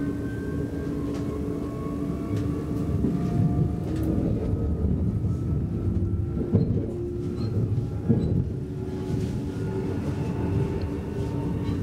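Cabin noise of an X10 electric commuter train running at speed: a steady low rumble of wheels on rails with faint steady whining tones above it. Two sharper knocks come about six and a half and eight seconds in.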